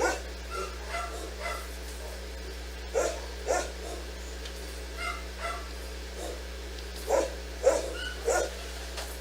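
A dog barking in short barks, mostly in pairs about half a second apart, with the loudest barks near the end, over a steady low hum.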